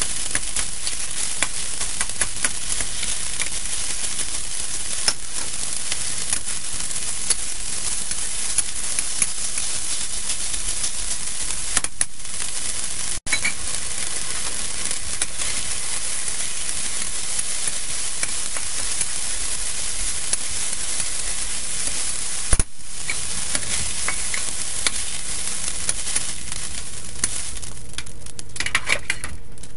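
Marinated chicken pieces sizzling in hot oil in a steel wok, stirred with a metal wok spatula and ladle that scrape and click against the pan. The sizzle is steady and thins near the end.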